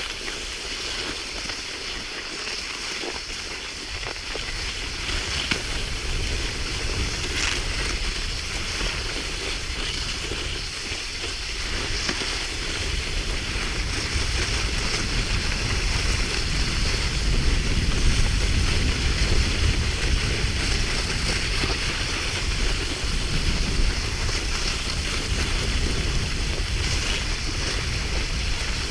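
Wind rumbling on the microphone over a steady hiss of cross-country skis gliding along a groomed track. The rumble grows stronger about twelve seconds in.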